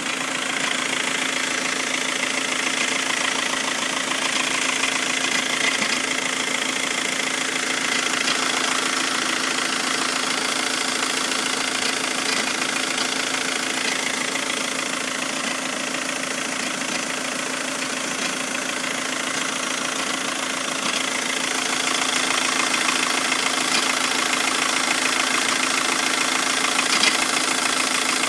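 2006 VW Jetta's 1.9 L TDI (BRM) diesel engine idling steadily, with a few short clunks from underneath the car standing out from the diesel clatter. The idle gets a little louder a few seconds past the middle.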